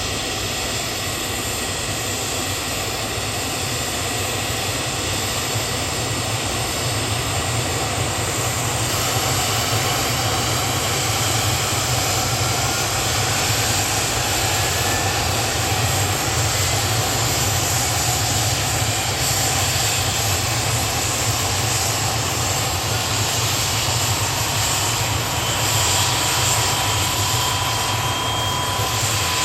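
Kamov Ka-32 helicopter's turbine engines starting up: a steady turbine noise and whine, with thin tones slowly rising in pitch as the engines spool up and the level growing a little after about eight seconds.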